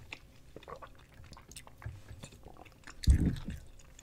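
Close-miked chewing of soft gummy candy: small wet, sticky mouth clicks and smacks. About three seconds in there is a louder low thump close to the microphone.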